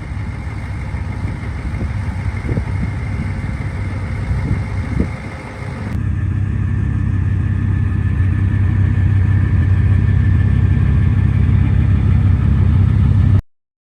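A vehicle engine running with a steady low drone. About six seconds in it cuts abruptly to a louder, steadier engine drone, which stops suddenly near the end.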